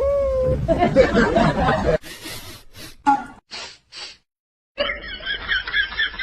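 Laughter in several short bursts, cut off abruptly about two seconds in, with a brief complete silence before a last rhythmic burst of laughing.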